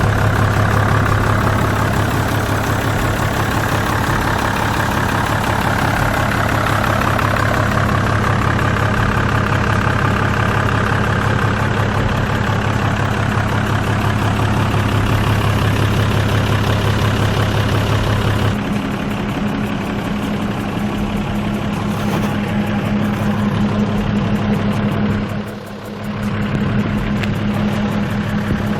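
Hyundai 5-ton truck's diesel engine idling steadily; about two-thirds of the way through, its note shifts higher and stays there, with a brief drop in level a few seconds later.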